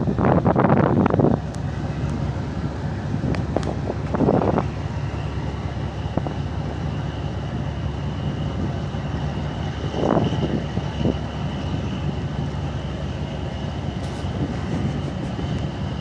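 Ship's engine running with a steady low rumble, joined about five seconds in by a faint steady high whine. Gusts of wind buffet the microphone at the start, around four seconds in and around ten seconds in.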